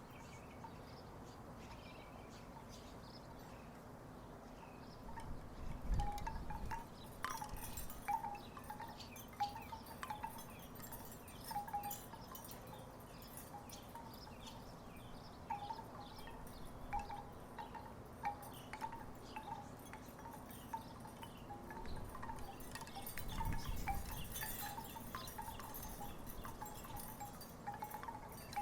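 Wooden tiki wind chimes clacking irregularly with hollow knocks, starting about five seconds in. A low rumble swells briefly twice, around six seconds in and again near the end.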